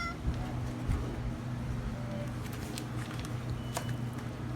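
Steady low mechanical hum, like a motor or engine running, with a few faint clicks scattered over it.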